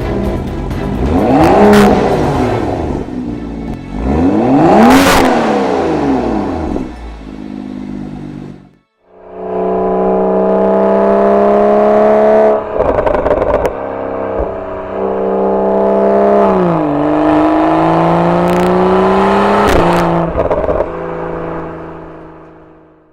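BMW 4 Series exhaust fitted with an aftermarket valved muffler: the engine is revved in two quick blips that rise and fall. After a short break it holds a steady raised speed, then drops back to a lower, idle-like note about two-thirds through and fades out at the end.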